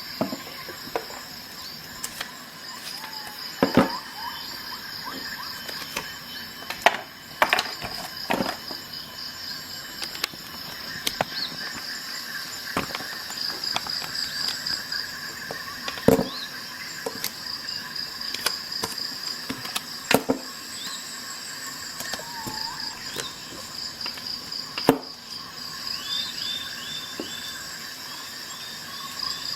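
Insects chirping in a steady pulsing trill, with scattered sharp metallic clicks and snaps from the tools of a Victorinox Swiss Army knife being opened and snapped shut.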